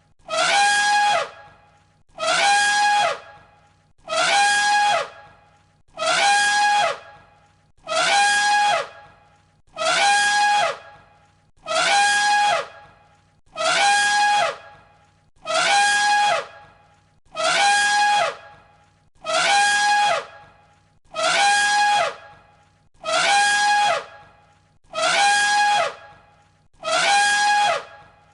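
An elephant trumpeting: the same short call looped over and over, one about every two seconds. Each call lasts about a second on one held pitch.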